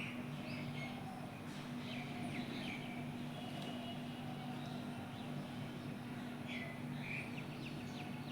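Birds chirping in short, scattered calls, over a steady low hum.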